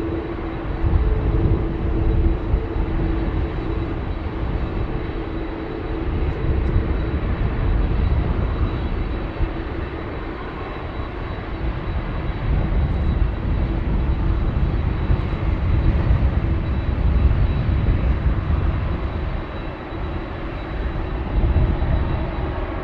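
Jet engine rumble from a Qantas Airbus A380-842 and its four Rolls-Royce Trent 900 turbofans, a steady low rumble with a faint high whine above it.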